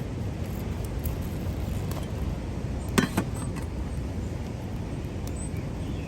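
Steady low wind rumble over the microphone, with a few faint ticks and two sharp clinks about three seconds in.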